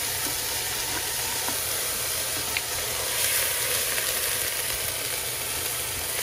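Steady sizzle of onion and minced garlic frying in olive oil in a Dutch oven as soaked black beans are poured in.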